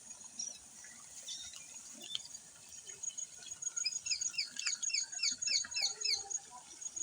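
A bird calling a rapid series of about ten short falling notes, roughly four a second, over a faint steady high-pitched buzz.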